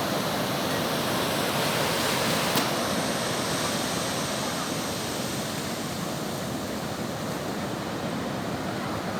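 Sea surf washing onto the beach, a steady rushing sound, with one short click about two and a half seconds in.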